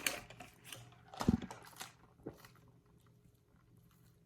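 A person chewing and biting fast food close to the microphone: a few short wet smacks and crunchy clicks over the first two seconds or so, one heavier than the rest, then quiet chewing.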